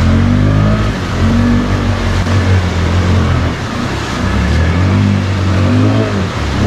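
Can-Am Outlander ATV's V-twin engine revving hard through mud, its pitch rising and falling several times as the throttle is worked.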